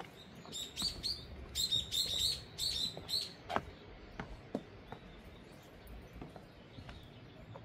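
A small bird chirping, a quick series of high notes in several clusters over about three seconds. Afterwards come a few soft short knocks.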